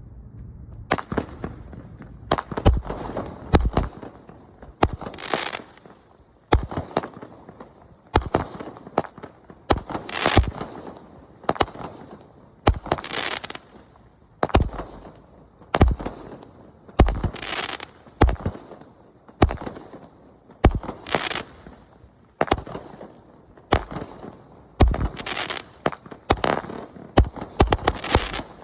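A 25-shot consumer firework cake going off. Its tubes fire in quick succession, about one to two reports a second, and the crackling shells burst in the air.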